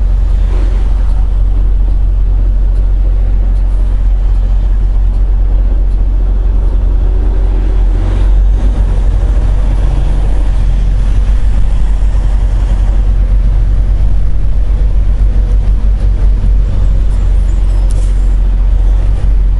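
Semi truck's diesel engine and road noise heard from inside the cab while driving, a loud, steady low rumble.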